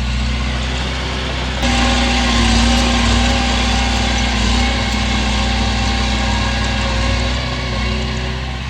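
Heavy diesel engine of earthmoving machinery running steadily; about one and a half seconds in it suddenly gets louder and harsher as it takes more throttle, and holds there.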